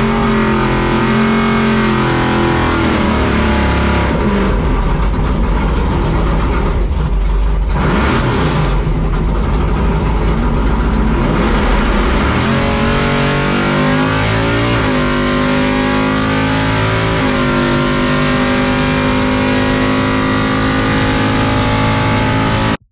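C10 drag truck's engine at full throttle through a drag-strip pass, loud and steady, its pitch rising and then stepping down several times as it shifts gears. It cuts off suddenly at the end.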